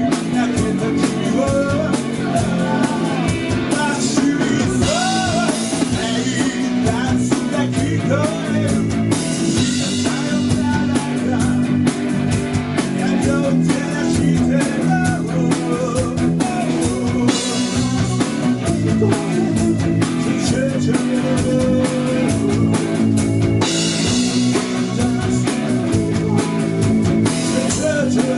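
Live rock band playing with electric guitar, bass and drum kit, with bending guitar lines over a steady groove and stretches of loud cymbal wash.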